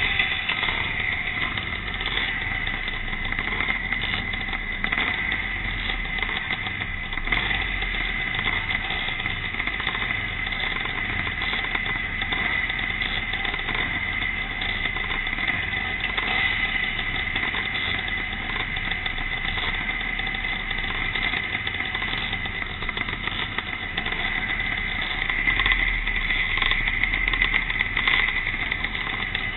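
Pre-1965 classic motocross motorcycles racing, their engines running continuously with rising and falling revs.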